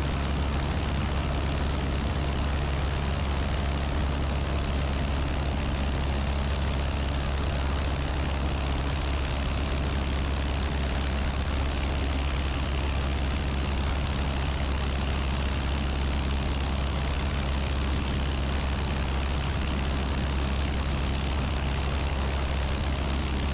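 Piper Archer PA-28-180's Lycoming four-cylinder engine and propeller running steadily in flight, an even low drone with no change in power.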